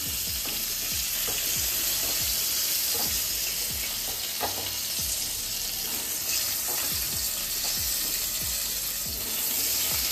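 Pointed gourd (potol) halves frying in hot oil in a non-stick kadai: a steady sizzle, with scattered light clicks and scrapes of a slotted spatula against the pan as the pieces are lifted out.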